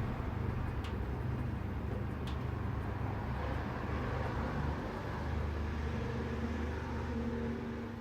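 A motor vehicle's engine running steadily with a low rumble, and two faint ticks about a second apart early on.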